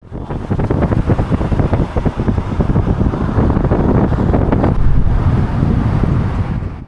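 Strong wind buffeting the microphone with a dense, gusting rumble.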